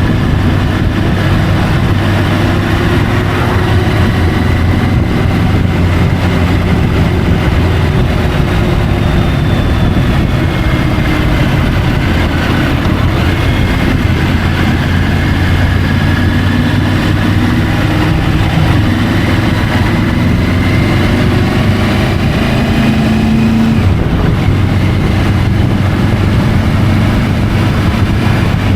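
Triumph Tiger 850 Sport's three-cylinder engine running steadily under way, its note shifting gently with the throttle, under a constant rush of wind on the bike-mounted microphone.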